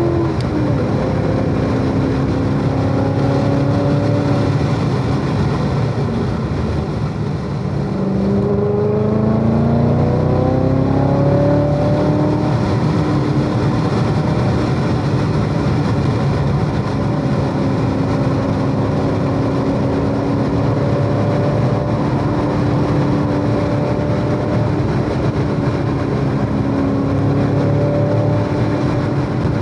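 Chevrolet Corvette C7 Z06's supercharged 6.2-litre V8 running hard on a race track. Its pitch drops about a second in, dips again around seven seconds, climbs between about eight and eleven seconds, then holds fairly steady through the second half, over a steady noise haze.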